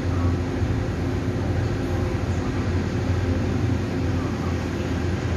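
Steady low hum of a train standing at the platform, with a constant drone and a few steady tones over it, unchanged throughout.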